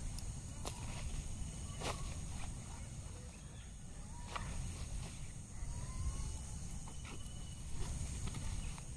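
Forest ambience: insects droning steadily at a high pitch, with scattered short bird chirps and a few sharp clicks.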